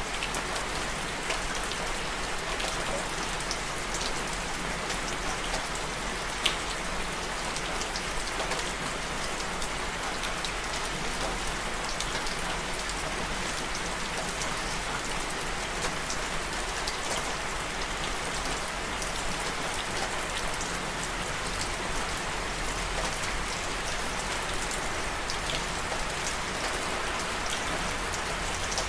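Steady rain falling, with individual drops ticking here and there over the even hiss; one drop lands noticeably louder about six and a half seconds in.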